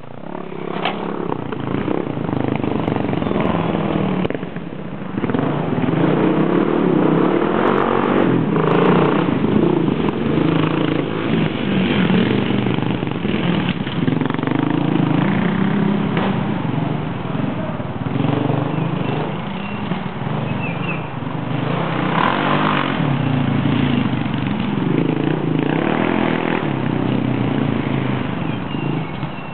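Single-cylinder dual-sport motorcycle engines running and revving up and down as the bikes ride laps over a dirt jump, with a short lull in the engine sound about four seconds in.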